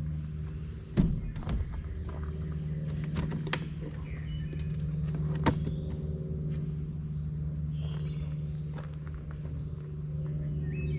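Scattered knocks and clicks of camp gear being handled, the loudest about a second in, over a steady low hum. A few short high chirps come near the end.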